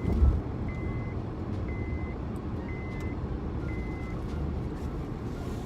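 Inside a moving Honda Accord: steady engine and road rumble, with a short high warning chime beeping about once a second, five times. A brief low thump comes just at the start.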